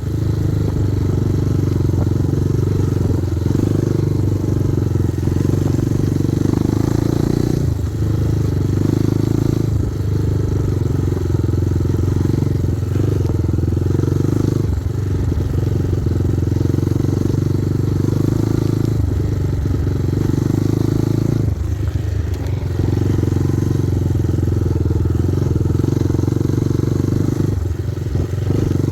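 Kovi Advance 250 motorcycle engine running under way at steady throttle, easing off briefly several times, as at gear changes or throttle lifts.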